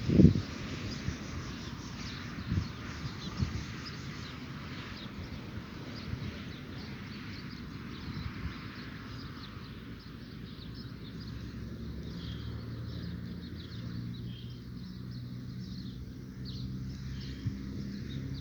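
Outdoor dawn ambience: faint, scattered bird calls over a steady hiss, with a few low thumps at the start. A low hum sets in from about eleven seconds in.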